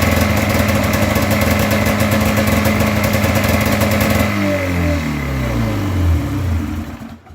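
A two-cylinder snowmobile engine runs steadily, then a little past four seconds in it slows, its pitch sliding down, and dies near the end. It stalls once it is starved of fuel, which the owner takes for a fuel-delivery problem.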